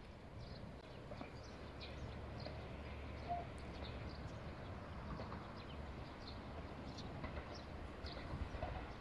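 Birds chirping in short, scattered calls over a steady low rumble, which grows louder and more uneven near the end.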